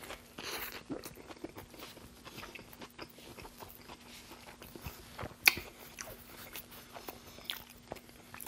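Close-miked chewing of a mouthful of burger: soft wet mouth smacks and small crunchy clicks, with one sharper click about five and a half seconds in.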